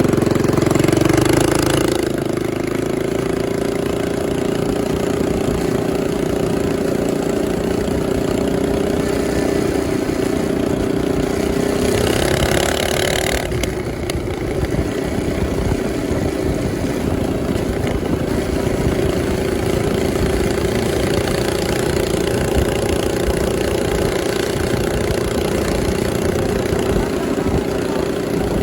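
Mini bike's small engine running steadily while the bike is ridden, fitted with a newly installed aftermarket carburetor and throttle cable. About twelve seconds in there is a brief burst of hissing noise.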